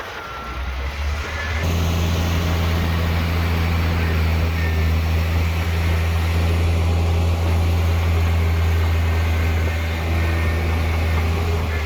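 Heavy diesel engine of earth-moving machinery running at a steady speed, a low drone that steps up louder about a second and a half in and then holds even.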